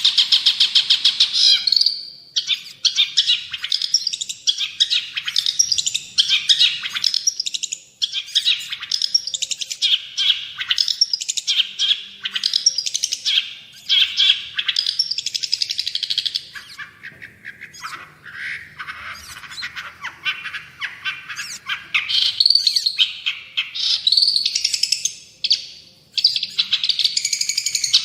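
Long-tailed shrike (cendet) in full song: a fast, continuous chatter of rapid notes, with a softer stretch about two-thirds of the way through.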